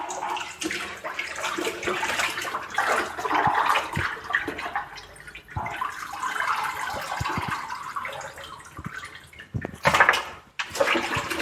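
Water splashing and being poured, with a few knocks.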